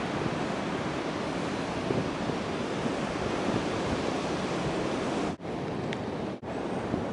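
Steady rush of ocean surf mixed with wind on the microphone, cut by two brief dropouts near the end.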